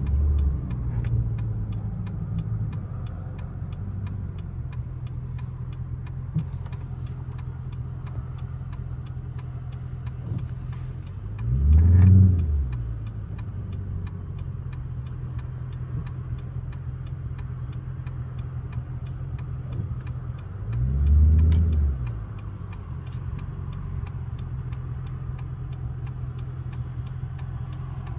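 Straight-piped Chrysler 300C Hemi V8 exhaust idling with a steady low burble. It settles from a rev at the start, then is blipped twice, each rev rising and falling back within about a second and a half, roughly ten seconds apart.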